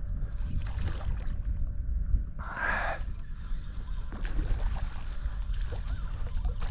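Low wind rumble on the microphone and water moving around a kayak, with a short rushing noise about two and a half seconds in and a few faint ticks.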